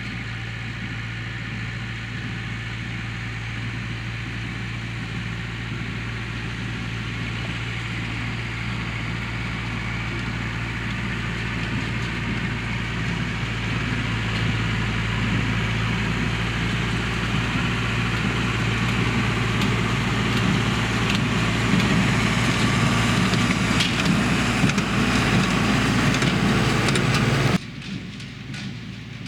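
Massey Ferguson tractor engine running steadily, slowly growing louder. Near the end it cuts off abruptly to a quieter sound.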